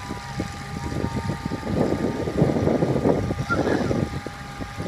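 Bucket truck running with a steady whine and a low hum; in the middle it gets louder with a rough, rattling noise for a couple of seconds.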